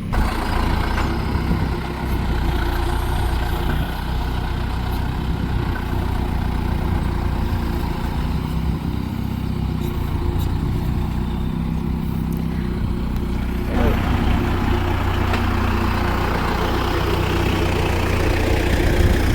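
A vehicle engine running steadily, getting a little louder and rougher from about fourteen seconds in.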